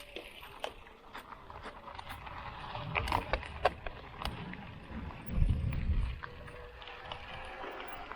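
Mountain bike rattling and clicking as it rides over a rough dirt track, with a burst of low rumble about five seconds in.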